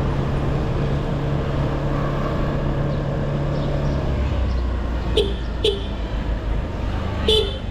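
TVS Pep+ scooter's small single-cylinder engine running under way, with road and wind rumble; its steady hum drops to a lower tone about four seconds in. Three short, sharp chirps come near the end, two close together and one a little later.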